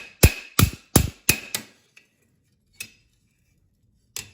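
Blacksmith's hammer striking steel bar stock on an anvil: a quick run of five ringing blows in the first second and a half, then three lighter, scattered knocks.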